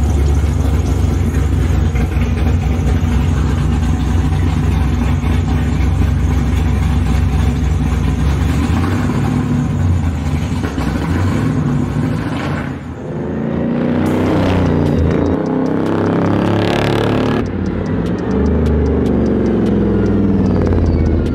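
Car engine rumbling steadily, then revving up and down as cars drive off and pass, with loud swells in the second half.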